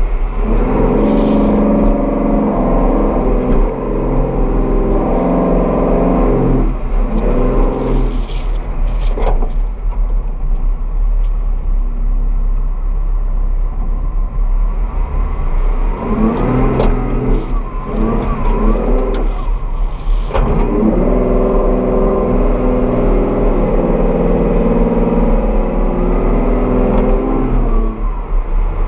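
Off-road vehicle engine working under load across soft sand dunes, its pitch swelling and falling with the throttle, over a constant low wind rumble on the microphone. A couple of sharp knocks come about a third of the way in and again past the middle.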